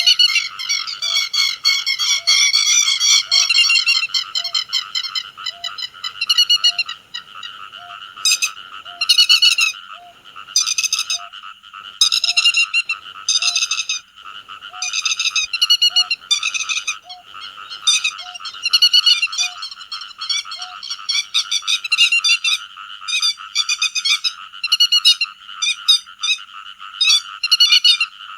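Recorded calls of the te vàng bird played as a flock-calling lure: short bursts of sharp, rapidly repeated notes about every second or so, over a steady high buzz. A faint regular tick sounds about every 0.7 s until roughly two-thirds of the way through.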